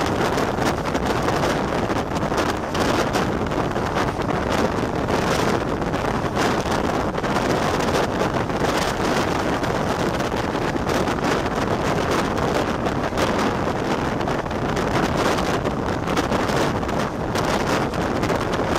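Wind rushing over the microphone with the steady running noise of a passenger express train's coaches and wheels on the rails at speed.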